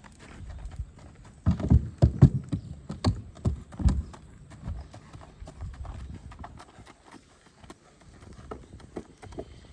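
Hoofbeats of a shod spotted saddle horse mare with keg shoes on all four feet, a quick run of hoof strikes. They are loudest between about one and a half and four seconds in, then fainter.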